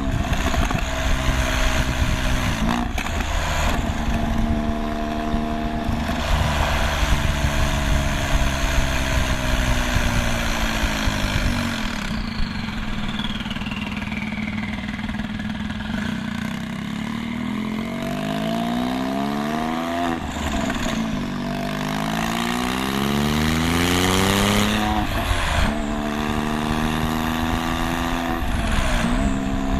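2001 Porsche 996 911 Turbo's twin-turbo flat-six through custom straight-piped turboback exhaust. It holds steady revs, the revs sink about twelve seconds in, then it is revved up and let fall twice before settling back to steady running.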